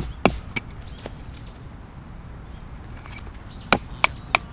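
Wood being chopped: three quick sharp chops, a pause of about three seconds, then three more chops near the end.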